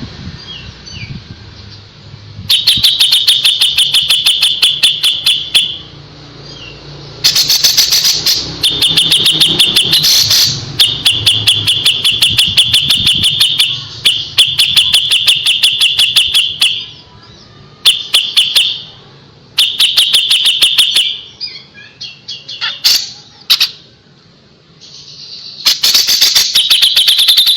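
Kapas tembak songbird singing its rapid 'tembakan' runs: bursts of a few seconds of sharp, evenly repeated notes, about seven a second, broken by short pauses.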